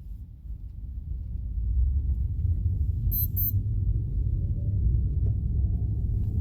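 Low road and wind rumble inside a moving car's cabin, growing louder about one and a half seconds in as the car picks up speed. A little past three seconds, the car gives two quick, high electronic chime beeps.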